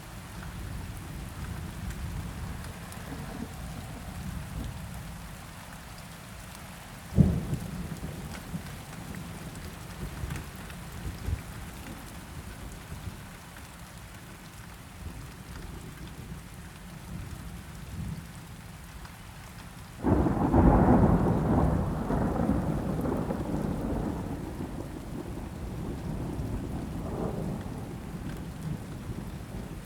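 Steady rain with thunder rumbling low. A sharp thunder crack comes about seven seconds in, then a loud clap about twenty seconds in that rolls on for several seconds and slowly fades.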